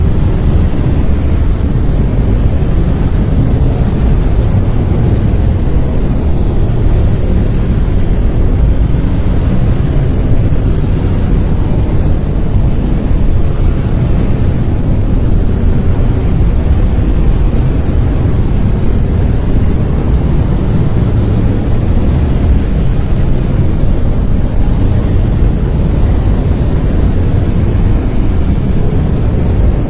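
Steady brown noise: an even, deep rumbling hiss, strongest in the bass and thinning toward the highs, with no changes or events.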